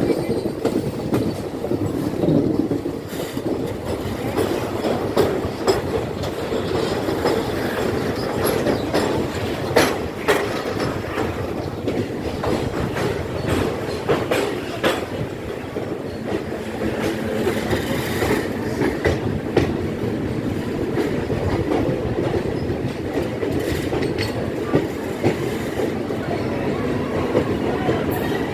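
Kirandul passenger train running on the track: a steady rumble of wheels and carriages, with occasional sharp clacks over the rail joints.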